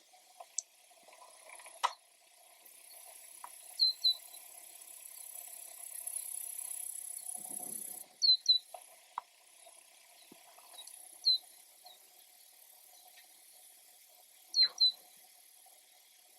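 A bird calling: short, high chirps, mostly in quick pairs, four times several seconds apart. A high steady hiss runs through the middle and cuts off suddenly.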